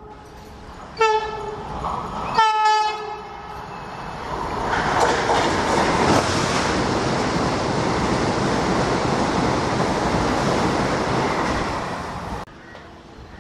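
Vande Bharat Express electric trainset sounding two short horn blasts, then running through the station without stopping. Its passing makes a loud, steady rush of wheel and air noise for about eight seconds, which cuts off suddenly.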